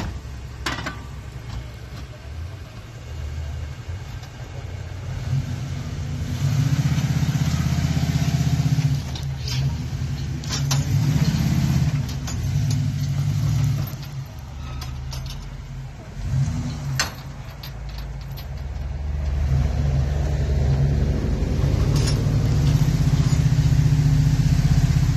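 Truck engine running and revving in long surges, rising and easing off several times, with a few sharp knocks.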